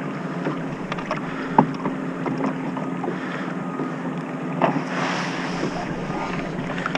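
Water lapping against a kayak hull with wind buffeting the microphone, and scattered light clicks and knocks, the sharpest about a second and a half in and again near five seconds.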